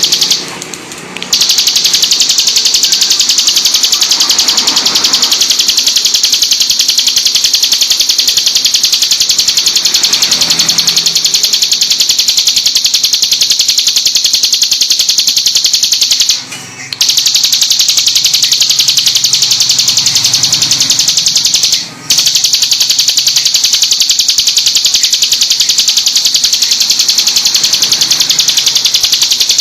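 Ciblek gunung (a mountain prinia) singing a loud, rapid-fire string of high, sharp notes with hardly a pause. There are three brief breaks: about a second in, near the middle, and a little later.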